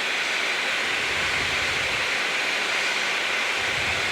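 Steady rushing noise inside the flight deck of a Boeing 737-800 in flight on approach: airflow over the nose and windshield with the air-conditioning, at about 170 knots.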